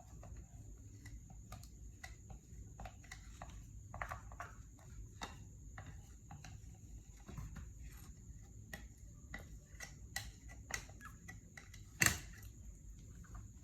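Scattered light clicks and taps over a faint steady hum, with one sharp knock about twelve seconds in.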